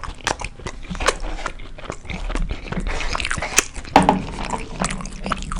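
Close-miked chewing of a burrito, with wet mouth clicks and smacks coming thick and fast.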